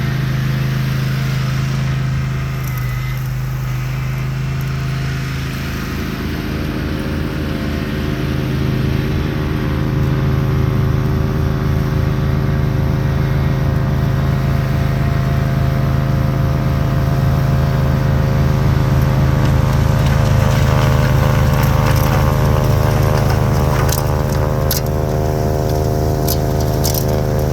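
Craftsman YT4000 lawn tractor's engine running steadily while driving a Bercomac 44-inch snowblower attachment, getting somewhat louder about a third of the way in. Several sharp clicks near the end.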